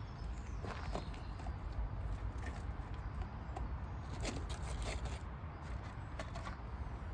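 Scattered light knocks and clicks over a steady low rumble, with a couple of sharper knocks about four and six seconds in.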